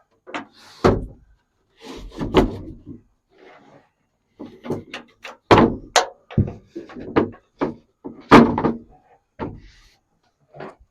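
Carpeted quarter-inch plywood sleeping platform being slid into a pickup bed and knocked into place on its wooden supports: a string of irregular wooden knocks and thuds with some scraping, the loudest about eight seconds in.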